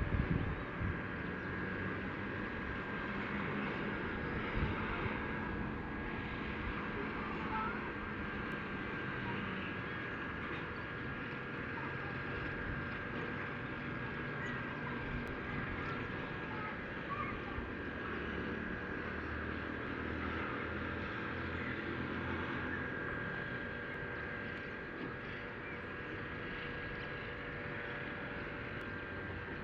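Steady outdoor background noise with a low motor hum that wavers slightly in pitch, and faint steady high-pitched tones.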